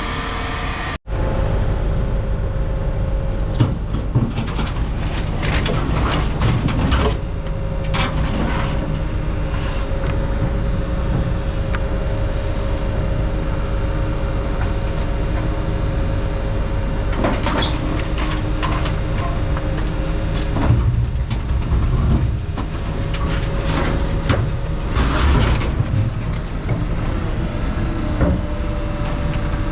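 A motor runs steadily with a low rumble and a held hum, with scattered metallic knocks and rattles over it.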